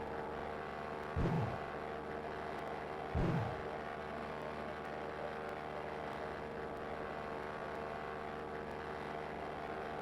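Cessna 172 Skyhawk's piston engine and propeller running steadily in flight, heard as a constant drone. Two brief low thumps come about one and three seconds in.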